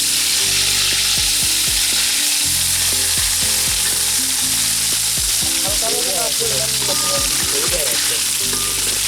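Khichuri frying in hot oil in a pot, sizzling steadily as it is stirred.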